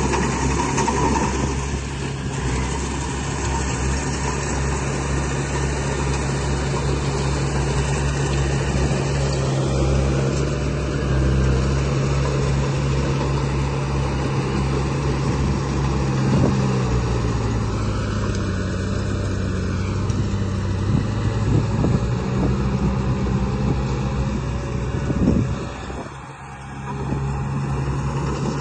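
Radio-controlled construction model's motor running steadily with a low hum. The pitch steps down about seventeen seconds in, and there is a short knock and a brief drop in level near the end.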